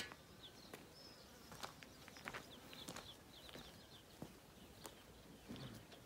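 Near silence, with faint, repeated short high chirps of distant small birds and a few soft clicks.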